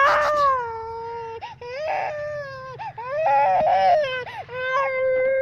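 A baby crying: a run of long, high, wailing cries, each a few seconds or less, with short breaks for breath between them.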